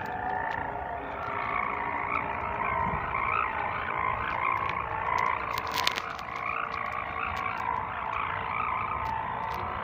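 Long sendaren hummer bow on a flying pegon kite droning in strong wind: a warbling hum that wavers in pitch and loudness, with wind rumbling on the microphone beneath it. A sharp click sounds about six seconds in.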